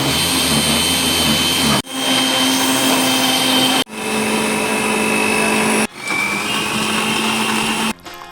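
Electric juice blender motor running loud and steady, in four stretches of about two seconds, each broken off by an abrupt cut.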